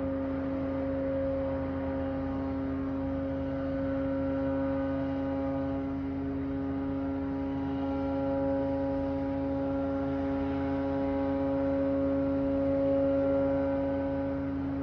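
A loud, constant droning hum made of several steady tones: a strong low tone with a higher one that swells and fades a little, over a low rumble. It holds without a break.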